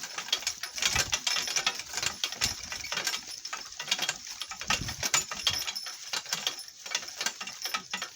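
Donkey cart rattling and clattering as it jolts over rough farm ground, a dense run of irregular clicks with a few low thumps.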